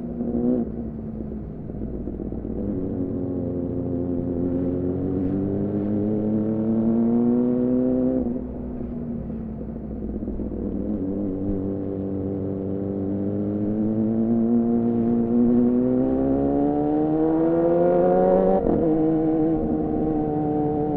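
2014 Yamaha R6's inline-four running through an aftermarket R9 titanium muffler and Leovince header while riding, the engine note climbing steadily under acceleration. About eight seconds in the revs drop away, then climb again for several seconds to a sharp upshift near the end, after which it runs at a steady pitch.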